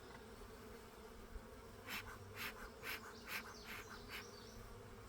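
Honey bees buzzing around an open hive: a steady low hum. About halfway through, a handful of short rustling clicks come roughly two a second.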